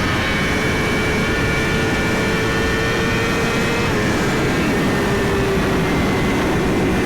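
Suzuki GSX-R1000 inline-four engine running at a steady highway cruise, under heavy wind rush on the rider's microphone.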